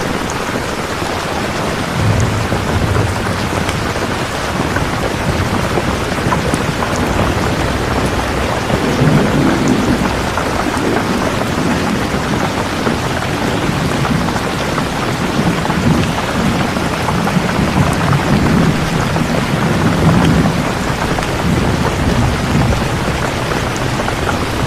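Steady heavy rain with rolling thunder rumbling low underneath, swelling twice, about 2 seconds in and again for a long stretch from about 8 seconds in.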